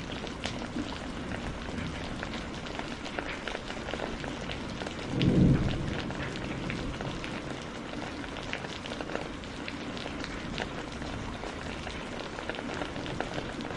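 Steady rain with many individual drops striking a surface. About five seconds in there is a brief low rumble, the loudest moment.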